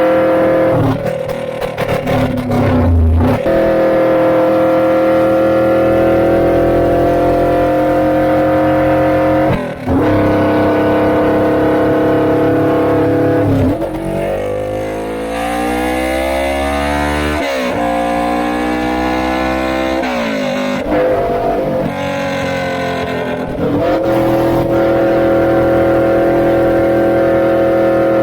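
Suzuki GS400 parallel-twin exhaust through a Pretty Racing Kiwami aftermarket muffler, ridden at speed: a loud, steady note held at constant revs, broken by a few brief throttle lifts, with the pitch falling and then climbing again midway.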